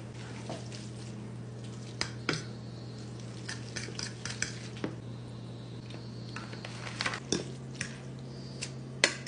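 Utensils clinking and scraping against dishes in a scattered series of sharp clinks, over a steady low hum.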